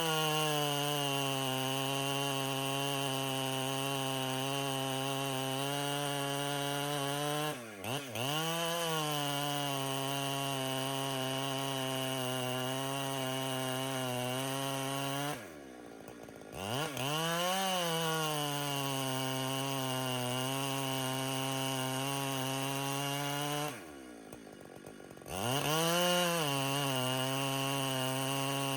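Two-stroke chainsaw cutting at high revs, ripping a cedar log lengthwise. It eases off and revs back up three times: briefly about a quarter of the way in, and for a second or so near the middle and again toward the end.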